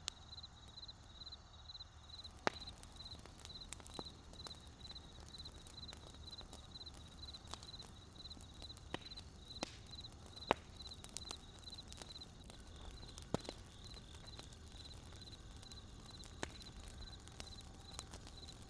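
Wood campfire crackling, with irregular sharp pops and snaps over a low steady rumble. A high, evenly pulsing chirp repeats about twice a second behind it.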